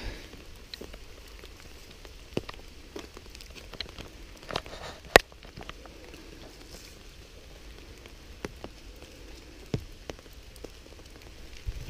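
Light rain falling, with scattered heavier drops tapping close by, one sharp drop about five seconds in.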